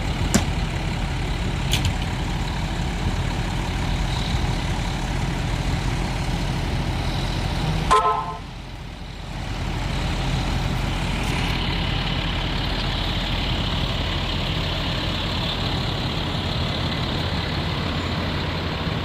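A large vehicle's engine running steadily at idle, with a short pitched tone about eight seconds in, after which the sound dips briefly before the engine resumes.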